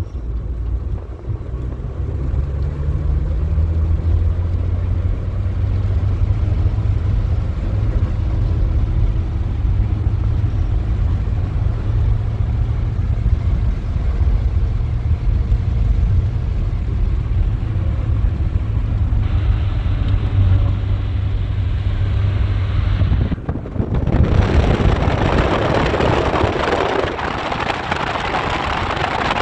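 A vehicle engine running at a steady low drone, rising in pitch a few seconds in as it picks up speed. About 23 seconds in it cuts off abruptly to a loud, even rushing noise.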